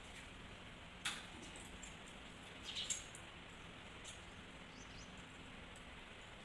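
Birds chirping faintly a few times, short high chirps about a second in, near three seconds and again around four seconds, over a quiet steady background.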